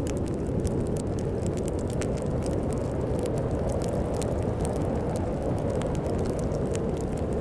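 Wood fire crackling with many irregular sharp pops over a steady low rumble of storm wind.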